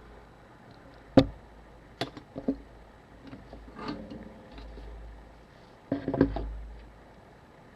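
Small tools and camera parts being handled on a workbench: a sharp knock about a second in, a few lighter clicks around two seconds, a soft rustle near four seconds, then a quick cluster of knocks around six seconds.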